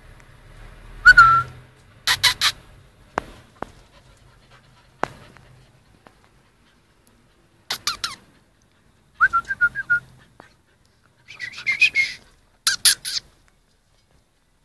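Dog whimpering in short, high squeaky whines, in three separate bouts, with sharp clicks in between.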